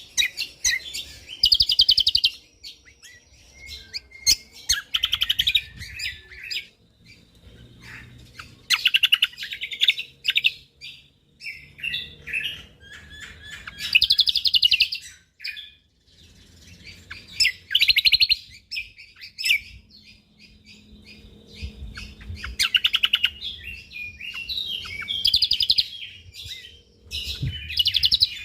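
Cucak kombok (kecial kombok) songbird singing in dense, rapid-fire bursts of high chattering notes, one to two seconds long, repeated every few seconds.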